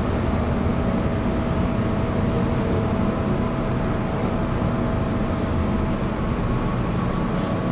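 Hong Kong MTR metro train running through a tunnel, heard inside the carriage: a steady rumble with a faint, even motor whine.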